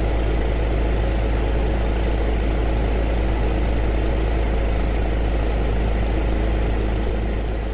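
Heater running: a steady rushing noise over a strong low hum, beginning to fade out near the end.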